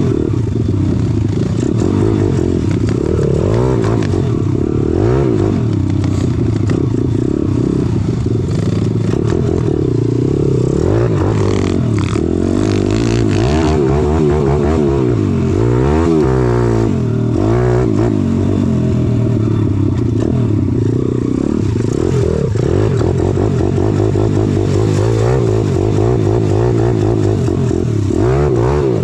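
Small single-cylinder pit bike engine being ridden hard, revving up and down over and over as the throttle is opened and closed.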